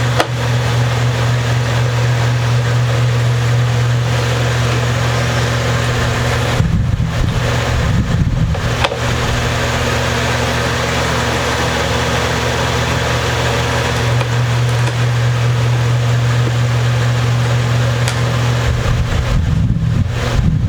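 A steady, loud low hum, broken twice by a few seconds of rough handling rumble, near the middle and near the end.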